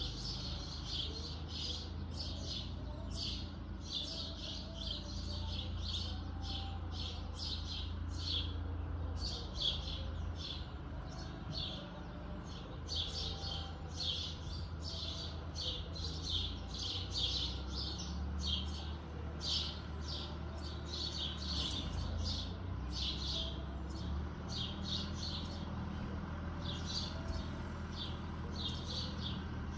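Small birds chirping rapidly and continuously, short high chirps following one another without a break, over a steady low hum.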